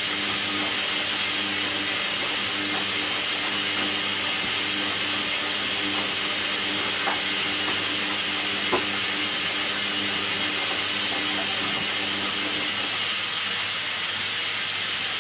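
Hoover washing machine running: a steady hiss with a low motor hum that stops about two and a half seconds before the end, and two faint clicks in the middle.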